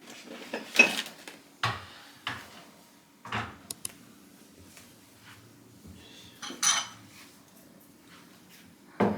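Dishes and cutlery being handled: a string of separate clinks and clatters, with two short high ringing clinks about three and a half seconds in.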